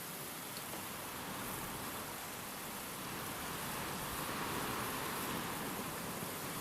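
Steady rain and wind: an even hiss with no single drops standing out, swelling slightly about four seconds in.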